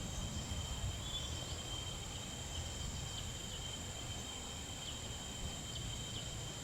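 Outdoor ambience of insects shrilling steadily in two constant high tones, with low wind rumble on the microphone and a few faint chirps.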